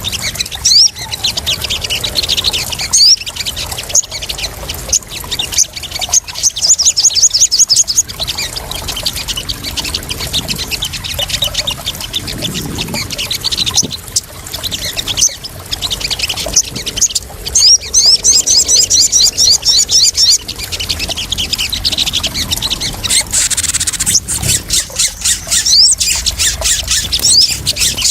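Crimson sunbird (sogon) calls: bursts of rapid, high chirping trills, repeated every few seconds, over splashing and trickling water with sharp clicky splashes. A lure recording meant to draw and settle sogon birds.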